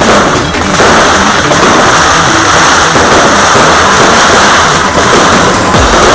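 Fireworks display: a loud, continuous crackling barrage with a deep boom near the end.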